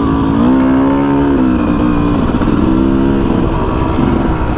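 Dirt bike engine on a trail, revving up twice, each time climbing in pitch and then dropping back off the throttle.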